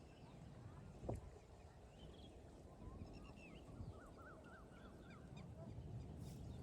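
Faint, quick bird chirps over a low outdoor rumble, with one soft knock about a second in.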